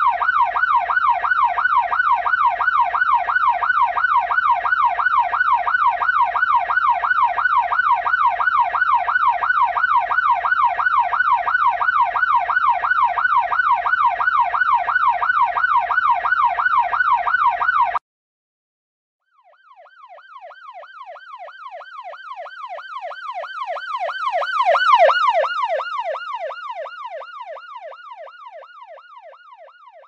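Ambulance siren in a fast yelp, a rapid rise-and-fall wail about three times a second, loud and steady, cutting off suddenly about 18 seconds in. After a short gap a second yelping siren comes in faint, swells to a peak and fades away again, as a siren passing by.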